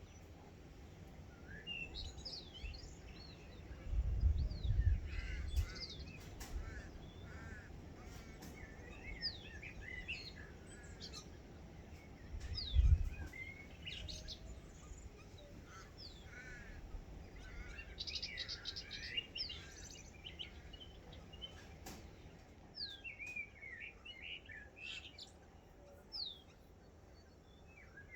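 Morning chorus of many wild birds calling and singing over one another in quick chirps and sweeping notes. Low rumbles about four and thirteen seconds in are the loudest moments.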